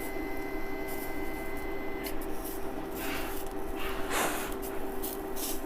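Sausages sizzling in a hot frying pan, with short bursts of hissing spatter about three, four and five seconds in, over a steady hum.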